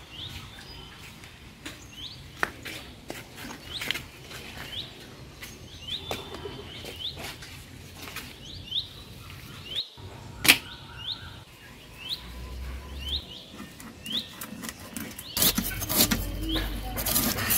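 A bird repeats a short rising chirp about once a second, with scattered clicks and knocks. Near the end, rapid scraping begins as a tilapia is scraped of its scales against an upright cutting blade.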